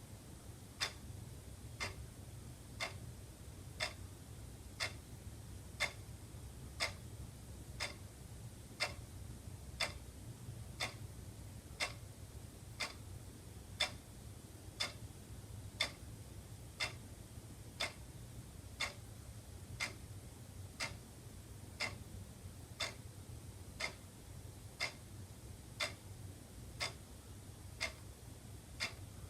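Wall clock ticking steadily, one tick a second, over a faint low steady hum.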